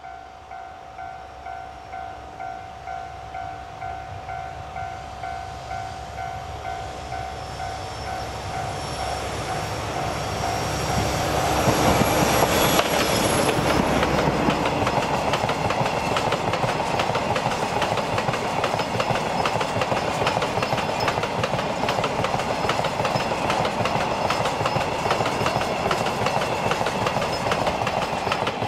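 Level crossing warning bell dinging in a steady rhythm while a DD56 diesel locomotive comes up, growing louder, then passes about twelve seconds in hauling a long train of Hoki 100 hopper wagons, their wheels clattering over the rail joints for the rest of the time.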